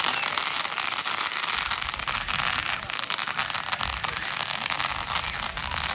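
Fireworks crackling: a dense, continuous crackle of many rapid small pops, with no single big bang.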